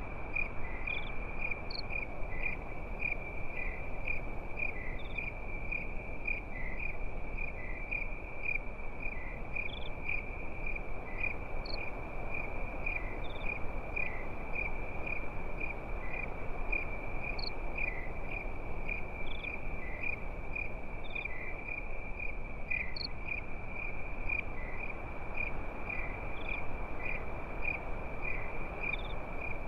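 Crickets chirping in a steady, fast pulsing trill at a high pitch, with scattered higher single chirps every second or two, over a steady low rushing background.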